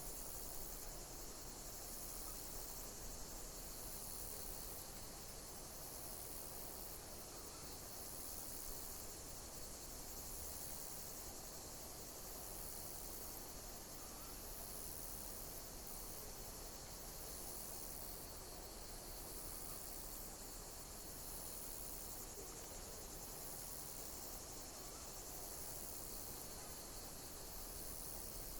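Insects chirping: a dense, high-pitched chirring with regular pulses of chirps about every second and a half, over a faint low background hiss.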